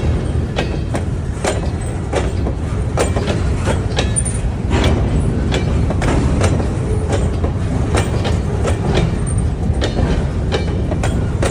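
Train rolling past: a steady rumble with wheels clacking over rail joints, a few clacks a second.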